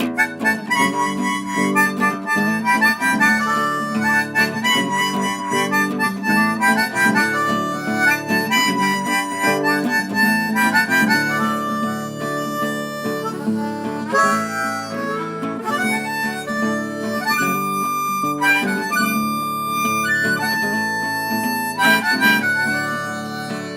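Harmonica playing the melody over acoustic guitar accompaniment: the instrumental introduction of a folk song, before the vocals come in.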